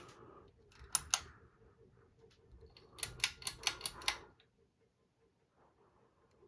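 Sharp mechanical clicks, two close together about a second in, then a quick run of about seven clicks a second or so later, over the faint steady hum of a ceiling fan running.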